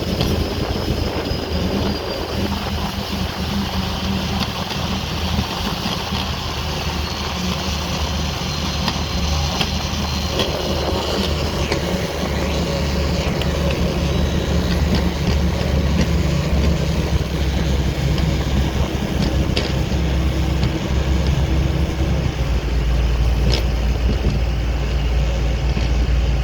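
Motorboat engine running steadily, a constant low drone with hiss over it.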